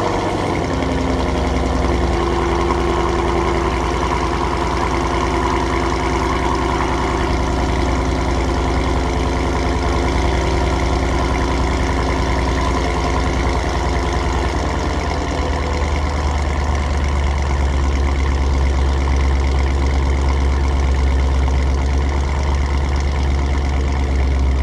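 Ford Mustang GT's 5.0 V8 through a Corsa Xtreme cat-back exhaust, idling loudly just after starting as a steady low drone. The higher tones in the idle ease off over the first ten seconds or so as it settles.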